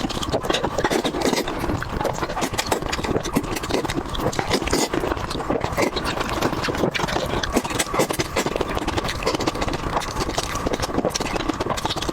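Close-miked eating sounds: a person chewing and smacking on food, with dense, irregular wet clicks and crackles.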